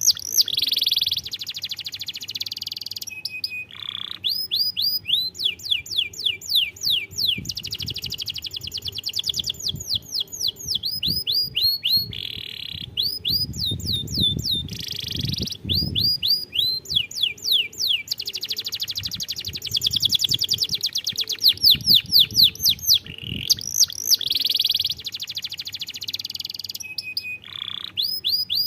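Domestic canary singing: a long, high-pitched song of rapid, repeated downward-sweeping whistled notes alternating with dense rolling trills, broken by short pauses between phrases.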